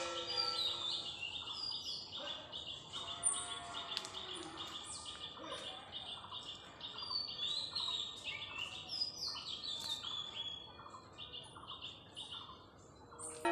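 Birds chirping and singing: a busy stream of short, quick high notes with higher, falling whistles mixed in.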